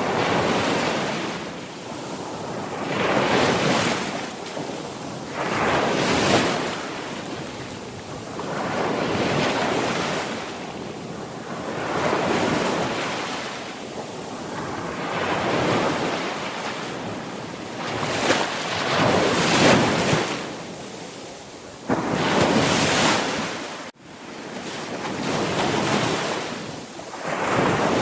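Sea waves breaking and washing up the shore, one surge after another every few seconds, each swelling and then fading away. The sound cuts out for a moment late on.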